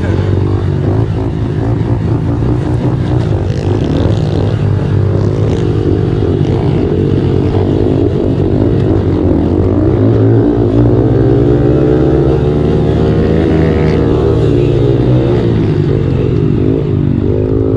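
Small single-cylinder four-stroke pit bike engine running, its pitch rising and falling with the throttle.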